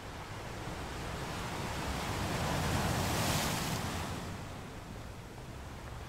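Sea surf: a small wave breaking and washing up a sandy beach, its hiss swelling to a peak about halfway through and then drawing back.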